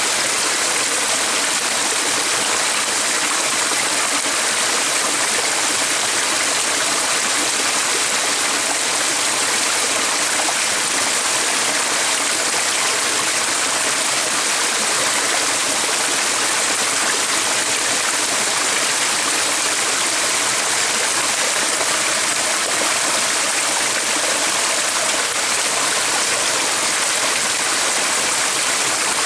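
Stream water rushing and flowing steadily.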